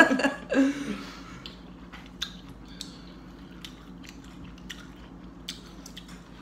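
Close-up chewing of a seafood boil mouthful: scattered wet mouth clicks and lip smacks, after a brief laugh in the first second.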